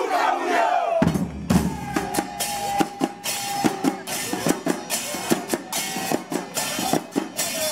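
A crowd shouting, then about a second in a murga's drums start up: steady, rhythmic bass drum and snare strikes with cymbal crashes, and a long held note over the beat.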